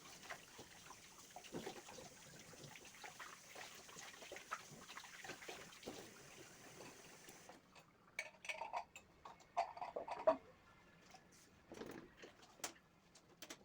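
Faint household handling sounds: quiet rustling and soft knocks, then from about eight seconds in a run of short clinks and knocks of dishes and kitchenware being moved about.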